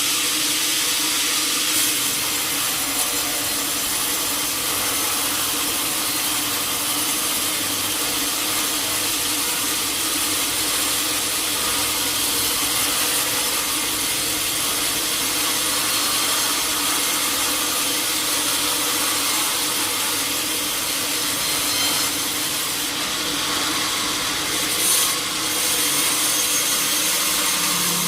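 A sawmill saw cutting through a teak log, a steady hiss of the blade in the wood over a low machine hum, with a brief change and a single knock near the end.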